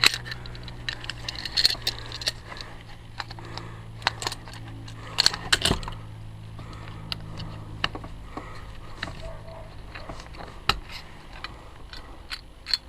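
Metal brake parts clinking, knocking and scraping as the rear brake of a Blade Z Moby X gas scooter is pulled out of its brake drum: scattered sharp clicks, with louder clatters about a second and a half in and again around the middle.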